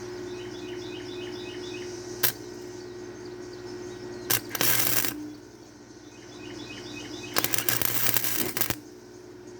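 Cheap Chinese wire-feed welder striking an arc in two short bursts of crackle, a brief one about halfway and a longer one of over a second near the end, over a steady hum. The arc burns holes easily in the thin bedframe steel. A faint bird-like chirping repeats in short phrases between the welds.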